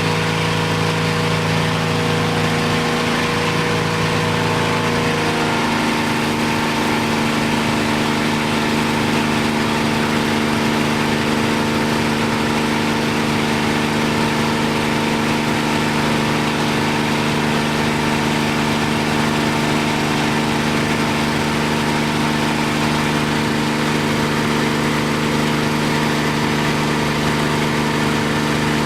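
Piston aircraft engine running at a steady idle. Its note changes about five seconds in, then holds steady.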